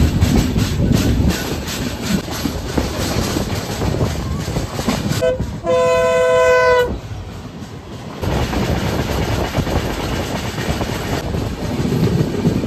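Express passenger train running at speed, wheels clattering over the rail joints, heard from the coach doorway. About five seconds in a train horn sounds a short blip and then one long steady note of about a second and a half; the running noise dips for a moment after it and then comes back.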